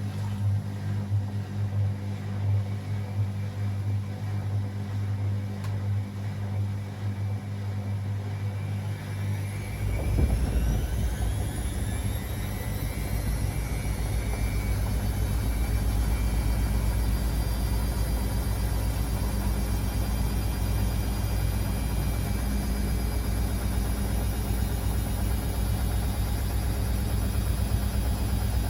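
Beko WA 1050 washing machine running; about a third of the way in its motor speeds up into the spin, a whine rising in pitch over several seconds and then holding steady with a heavier rumble as the drum spins at speed.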